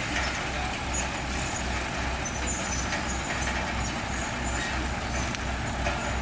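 Komatsu D31PX crawler bulldozer's diesel engine running at work, with a steady low throb repeating a few times a second and faint short high squeaks above it.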